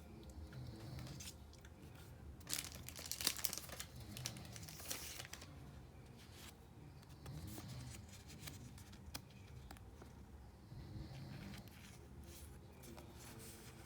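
Foil booster-pack wrapper crinkling and tearing open, loudest in a burst of crackly tearing from about two and a half to five seconds in, then softer rustling of the wrapper.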